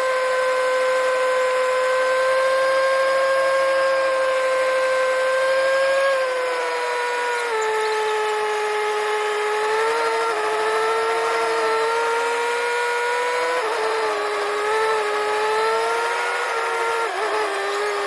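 A machine's steady high-pitched whine that drops in pitch about six seconds in and wavers up and down after that.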